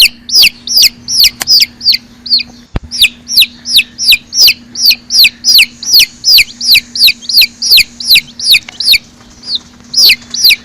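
A bird giving rapid, high-pitched peeps, each falling in pitch, about three a second, with a short pause near the end.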